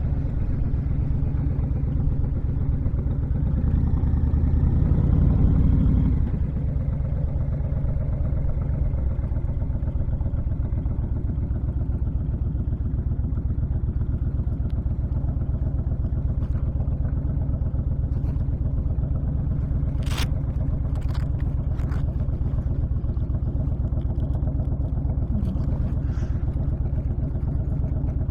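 Honda VTX1300's V-twin engine running steadily under way, with wind rushing over an unshielded rider. It grows louder for a couple of seconds about four seconds in, and a few sharp clicks come about twenty seconds in.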